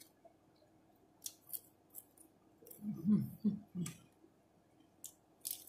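A person chewing food close to the microphone: sparse, sharp mouth smacks and clicks, with a few short hummed 'mm' sounds about three seconds in.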